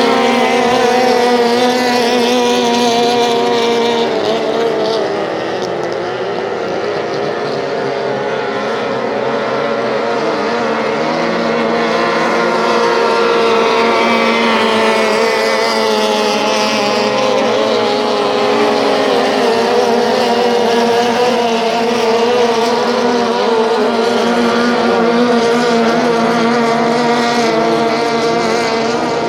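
Outboard motors of racing tunnel boats running at full speed, several engines at slightly different pitches drifting up and down together, dipping a little in level about five seconds in before rising again.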